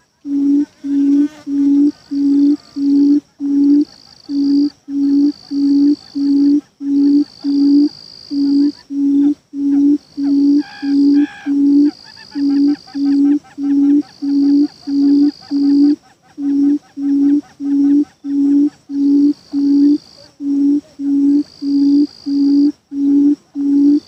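A bird's low hooting call, repeated about twice a second in runs of five or six notes with short breaks between runs. Insects buzz in on-and-off stretches behind it, and two short higher chirps come about halfway through.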